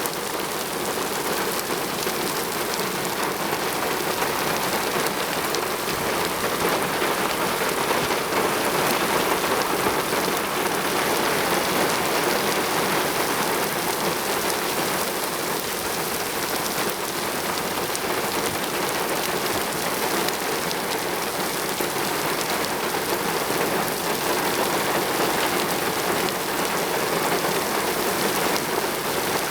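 Rain falling steadily: a dense, even hiss of drops that keeps up without let-up.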